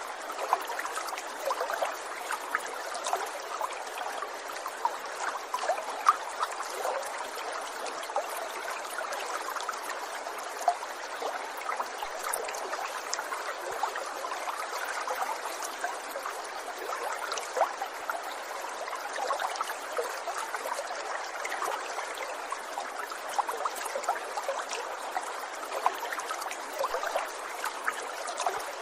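Running water trickling and gurgling steadily, like a small stream over stones, with many small splashes and no change through the whole stretch.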